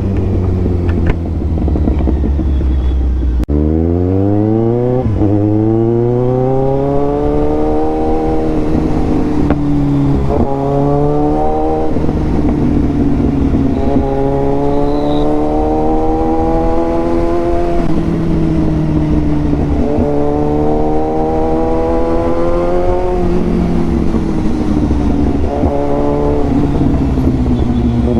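Kawasaki Ninja 1000's inline-four engine through a full-system Austin Racing exhaust, loud, accelerating through the gears. The engine pitch climbs and drops back at each gear change several times, starting about three seconds in, with steadier stretches in between.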